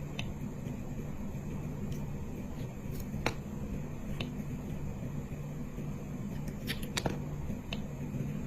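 Slime being handled, making scattered small sharp clicks and pops, roughly one every second or so and loudest about three seconds in and near seven seconds, over a steady low hum.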